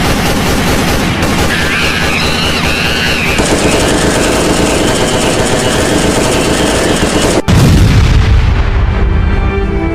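Film sound effects of rapid automatic gunfire for about seven seconds, then a brief cut and a heavy explosion rumble. Music with held notes comes in near the end.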